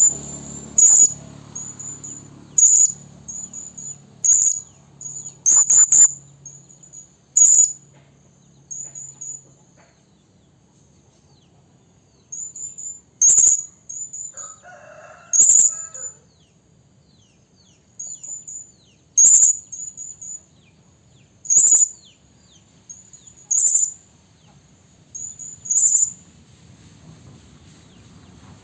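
Hanging parrot (serindit) calling: short, very high-pitched shrill notes in quick runs, punctuated by louder single calls every couple of seconds, with two brief pauses. A female's call, used as a lure to bring in males.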